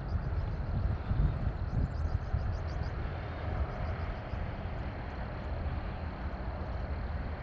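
Outdoor ambience dominated by uneven low wind rumble on the microphone. About two seconds in, a bird gives a quick series of high chirps.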